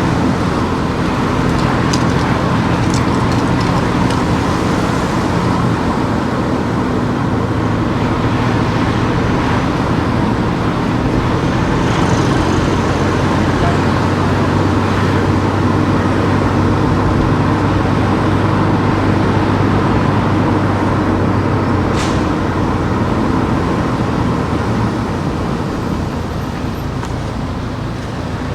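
A car driving on town streets: a steady engine hum under tyre and road noise, with a single sharp click about two thirds of the way through.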